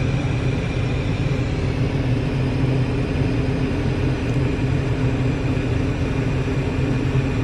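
Car idling, heard from inside the cabin: a steady low hum with a faint, steady high whine over it.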